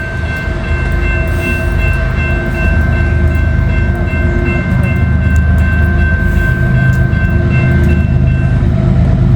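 Norfolk Southern freight train passing close by, its locomotives and cars making a heavy steady rumble. A set of steady high tones sounds over it and stops near the end.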